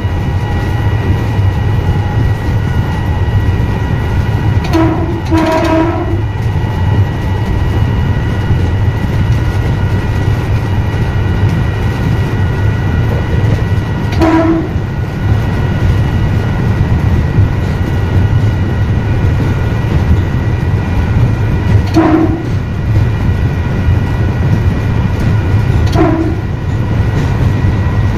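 Electric train running at speed, heard from the driver's cab: a steady loud rumble with a faint steady whine. Short toots of the train's horn sound over it, a double toot about five seconds in, then three single toots spaced several seconds apart.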